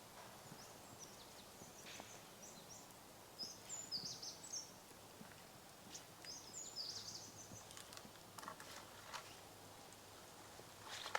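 Small birds calling: two short flurries of high chirps a few seconds apart, over faint rustling and small crackles.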